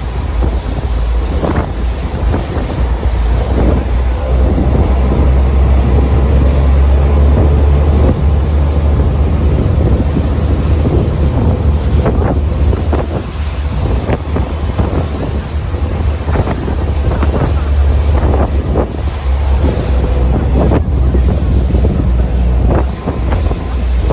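A motorboat under way: a steady low engine drone, with wind buffeting the microphone and irregular splashes of water against the hull.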